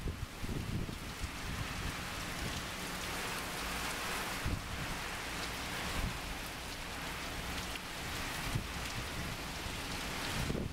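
Heavy rain pouring down onto a street and pavement: a steady, dense hiss.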